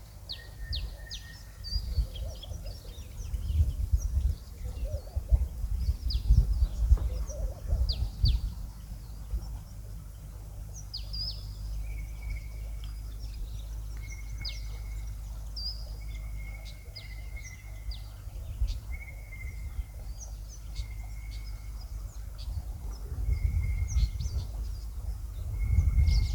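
Wild birds calling: many quick, downward-sweeping whistled notes, and from about halfway a bird repeating a short, level whistle every second or two. Underneath runs an uneven low rumble.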